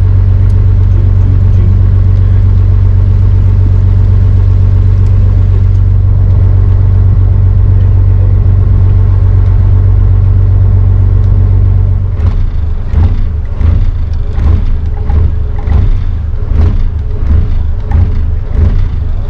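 The barge's inboard engine running steadily with a loud low hum while under way. About twelve seconds in the sound turns uneven and fluttering.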